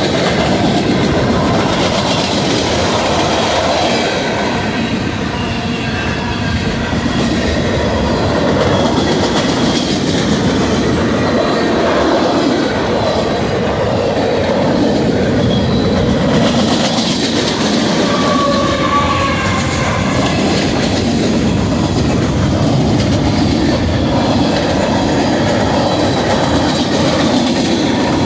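Freight cars of a mixed manifest train rolling past at close range, a steady loud clatter of steel wheels on rail.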